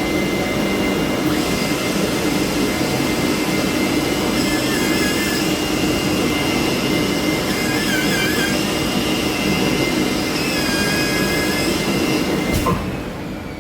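CNC fabric cutting machine running: a loud, steady rushing noise with faint whining tones that switches off suddenly near the end and then dies away.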